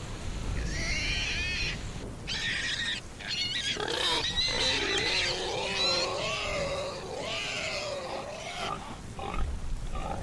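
A run of unidentified animal calls: pitched, wavering cries that come and go every second or so, over a steady low background noise.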